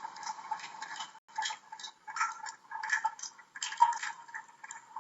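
Water dripping from a tap: short drops falling several times a second, irregularly spaced.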